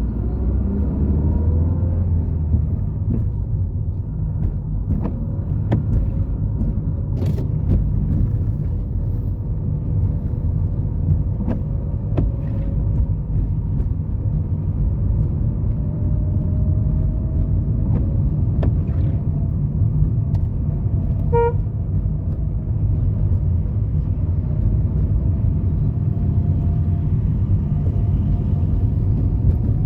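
Road traffic: a steady low rumble of car engines and tyres, with a short beep about two-thirds of the way through.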